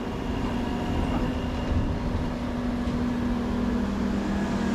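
Heavy diesel earthmoving equipment, a large excavator and haul truck, running steadily: a low rumble with a constant engine hum.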